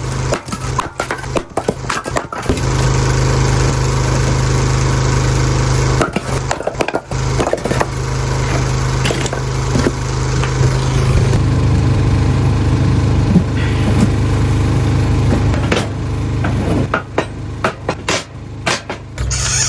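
Small engine running steadily with a low hum, cut off briefly again and again in the first few seconds, with a few sharp knocks near the end.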